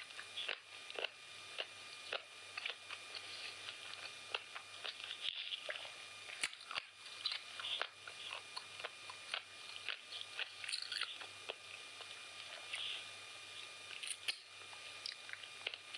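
Close-miked chewing and mouth sounds of someone eating chicken biryani: irregular wet smacks, small crunches and clicks several times a second, over a faint steady electrical hum.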